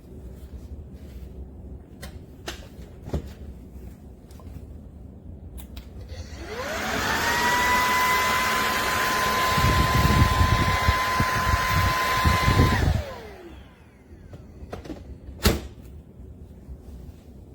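Bissell PowerClean vacuum cleaner's 200 W motor switched on, whining up to a steady high pitch with a loud rush of air, a rough low rumble joining in for its last few seconds. It is switched off after about six seconds and the whine falls away as the motor winds down; a few clicks come before and after.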